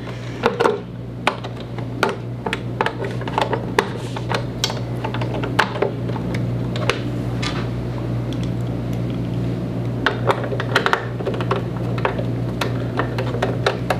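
Screwdriver tightening screws into the back of a monitor on a dual monitor mount: irregular small clicks and taps of metal parts and tool, over a steady low hum.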